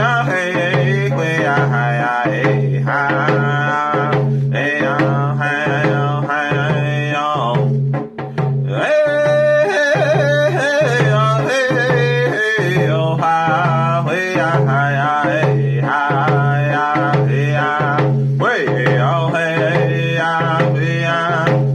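Male singer's voice in round dance song vocables, accompanied by his own hand drum keeping a steady round dance beat. The voice breaks off briefly about eight seconds in, then resumes higher.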